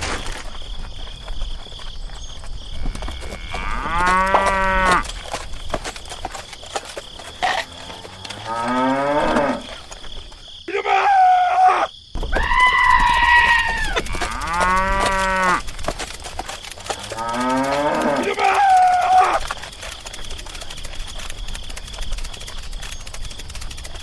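Livestock calling: about six long, drawn-out calls a couple of seconds apart, some held level in pitch and some falling away at the end.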